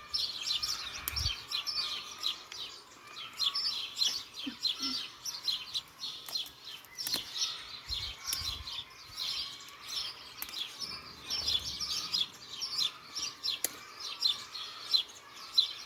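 Birds chirping in a dense, continuous chorus of short high calls, with a few faint low thuds underneath.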